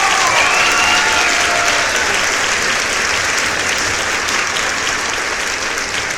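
Crowd applause, a dense, steady clatter of many hands, easing slightly toward the end. A few brief pitched glides sound over it in about the first second.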